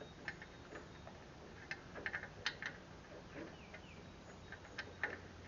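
Faint, irregular small clicks and taps of tools and metal parts being handled while fitting a bolt onto a stud, over a low steady hum.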